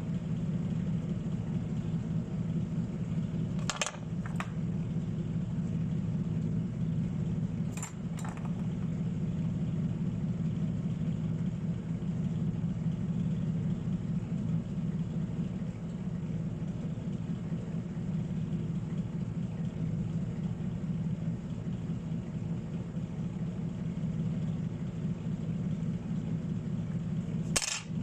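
Steady low hum of a running electric motor, with a few short clicks about four and eight seconds in and again near the end.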